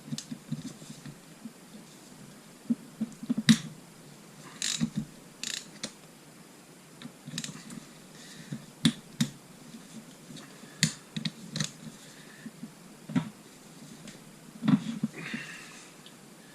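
Irregular metallic clicks and knocks of hand tools working the cylinder head nuts off a Suzuki GN250 motorcycle engine, the loudest knock about three and a half seconds in.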